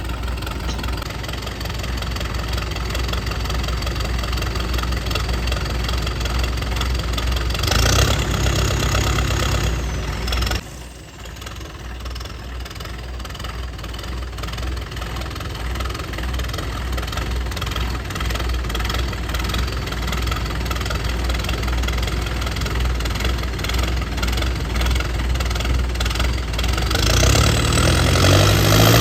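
Diesel tractor engine running under load. It grows louder about eight seconds in, drops off suddenly a couple of seconds later, then slowly builds again, with the revs rising near the end.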